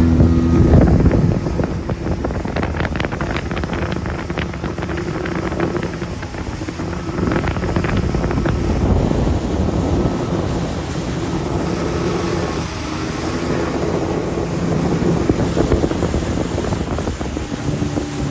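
Motorboat engine running at speed, with water rushing past the hull and wind buffeting the microphone.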